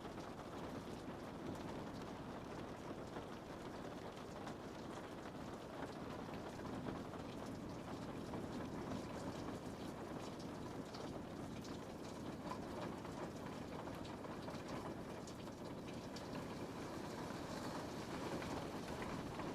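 Steady rain on a window: an even patter with scattered small drop ticks.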